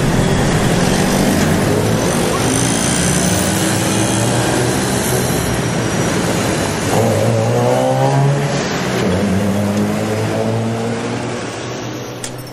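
A car engine running and revving, its pitch rising and falling a few times over a steady rush of road noise, then fading away near the end.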